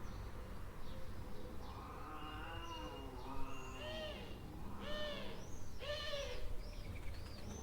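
Cats yowling in a fight: drawn-out wailing cries that rise and fall in pitch begin about a second and a half in. About halfway through they break into a quick run of shorter, higher cries.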